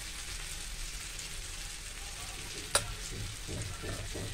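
Onion and spice masala sizzling steadily in hot oil in an iron kadhai, with a single sharp tap about two-thirds of the way through.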